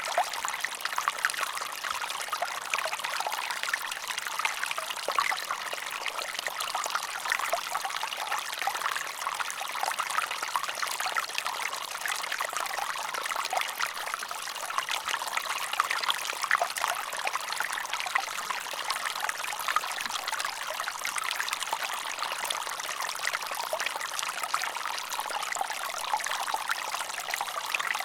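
Water running steadily over rocks in a small stream, with a constant babbling and trickling.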